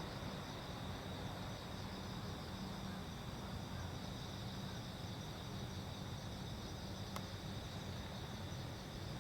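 Night insects trilling steadily in high pitched bands, over a low steady hum. A single faint click about seven seconds in.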